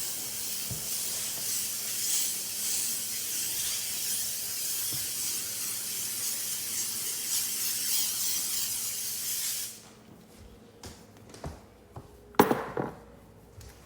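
A steady hiss that cuts off suddenly about ten seconds in, followed by a few light knocks and one louder clatter near the end.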